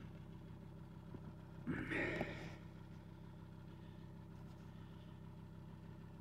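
Volvo S80's 2.4-litre five-cylinder common-rail diesel idling steadily after a cold start in freezing weather, an engine with over 600,000 km on it. A brief louder sound comes about two seconds in.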